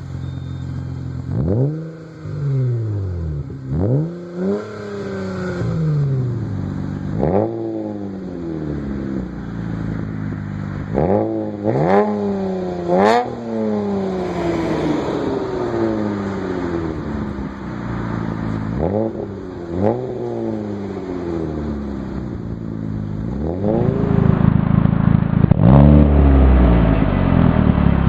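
Hyundai Tiburon engine revved through an aftermarket exhaust: a series of quick throttle blips, each rising sharply in pitch and falling back to idle. From about 24 s in, the sound turns louder and deeper.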